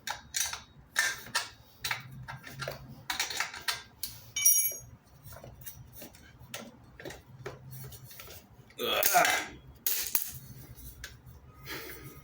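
Metal tools and exhaust parts clinking and clanking as they are handled, with one ringing metallic ping about four and a half seconds in and a louder, longer noise around nine seconds in.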